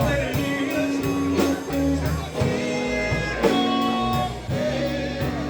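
Blues band playing a slow ballad, with electric guitar carrying the melody in held, sustained notes over bass and drums.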